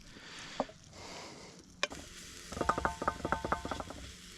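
A metal utensil clattering against a metal pan while food is stirred: a quick run of ringing metallic clicks, about eight to ten a second, starting a little past halfway.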